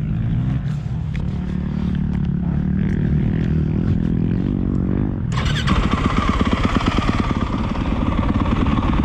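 Motocross bike engine running at low revs. About five seconds in the sound jumps suddenly to the bike running hard under throttle, with rapid firing pulses.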